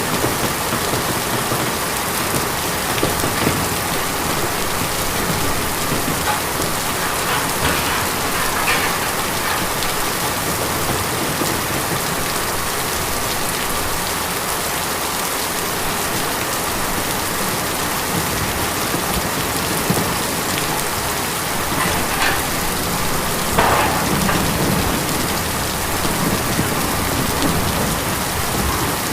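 Steady rain drumming on a tin roof, an even hiss of drops with scattered louder individual drop hits.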